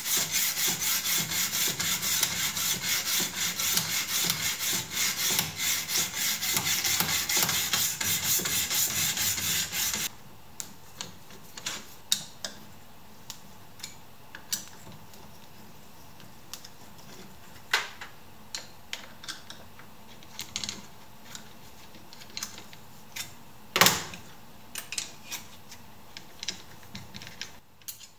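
Knife blade stroked rapidly back and forth on a diamond sharpening stone in a guided sharpening jig, a dense rhythmic scraping that stops abruptly about ten seconds in. After that come scattered light clicks and knocks as the jig is handled and the stone is swapped, with one louder knock near the end.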